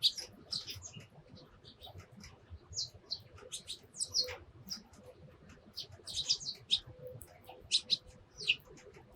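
Sparrows chirping: many short, sharp chirps in quick irregular bursts, several birds at once.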